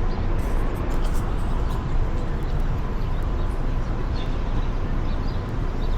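Steady low rush of wind and rolling noise while riding an electric Onewheel, with a faint steady whine underneath.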